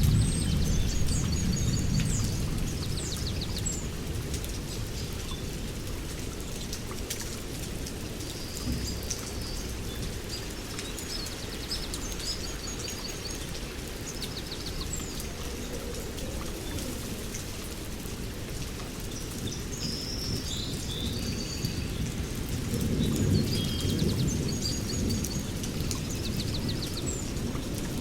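Steady rain with rolling thunder: a low rumble fades over the first couple of seconds and another swells up later on. Songbirds sing short, repeated phrases of chirps and quick trills over it.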